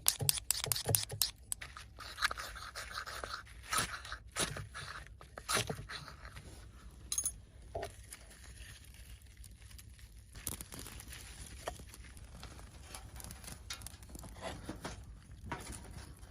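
Irregular clicks, knocks and scraping of hard objects being handled, densest in the first couple of seconds and sparser later.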